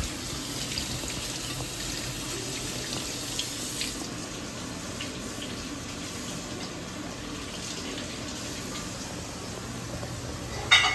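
Water running steadily with a low hum underneath, and a short louder sound near the end.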